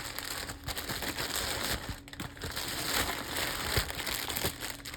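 Crinkling and rustling of toy packaging being handled, an irregular run of small crackles and clicks.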